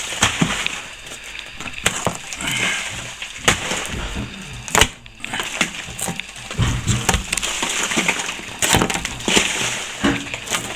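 Old plaster being scraped and chipped out along a crack to open it up: irregular scraping with many sharp knocks as bits of plaster break away.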